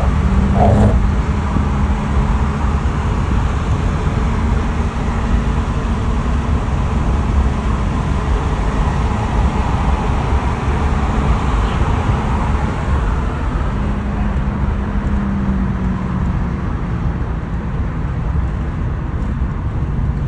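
Steady outdoor rumble of engines and traffic with a low, even hum, swelling a little in the middle and easing toward the end.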